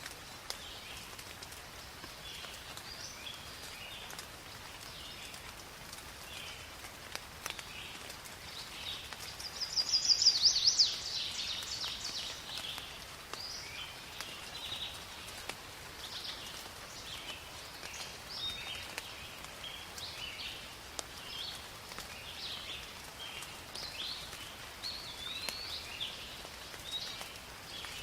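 Steady rain falling on forest foliage, with occasional drips, while birds call in short high phrases throughout. About ten seconds in, one bird gives a loud, fast run of high notes lasting about a second, the loudest sound.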